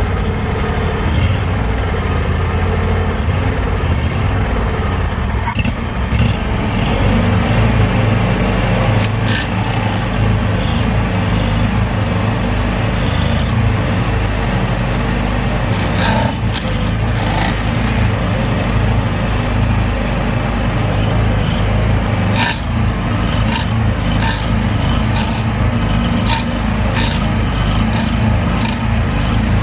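A motor engine running steadily at an even speed, with scattered clicks and scrapes over it.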